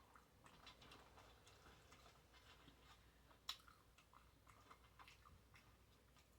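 Faint close-up chewing of a bacon cheeseburger: soft wet mouth sounds and small clicks, with one sharper click about three and a half seconds in.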